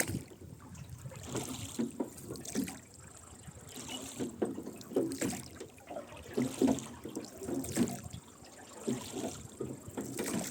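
Rowboat oars dipping and splashing in the water with the oarlocks creaking, stroke after stroke in a steady rowing rhythm.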